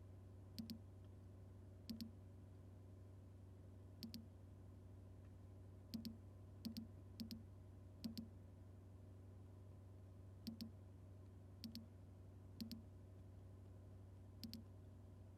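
Faint, sharp double clicks at uneven intervals, about a dozen, over a low steady hum.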